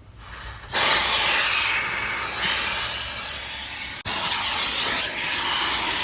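Car wash vacuum sucking air through its hose and crevice tool: a steady, loud rushing hiss. It is low at the very start, comes back abruptly just under a second in, and breaks off for an instant about four seconds in.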